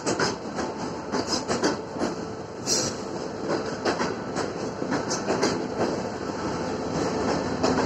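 Freight train wagons rolling slowly during shunting, their wheels clattering in irregular sharp knocks over rail joints, against a continuous rumble.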